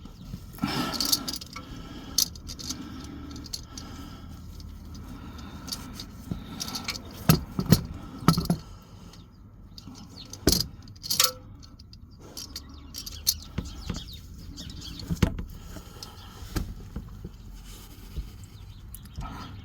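Ratchet and oil filter wrench working a tight oil filter loose: irregular metal clicks, clinks and knocks, a few of them sharp and loud.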